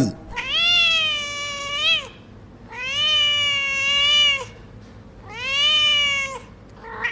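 Domestic cat meowing three times, each meow long and drawn out, with a short pause between.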